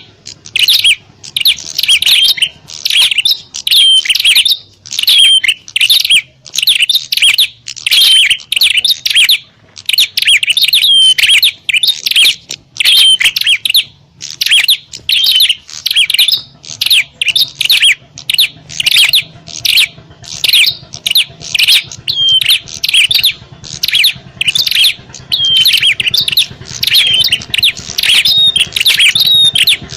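Prinias (prenjak) calling in a rapid, agitated stream of sharp, high chirps with hardly a pause, the noisy territorial 'fighting' calls used as a lure for wild prinias.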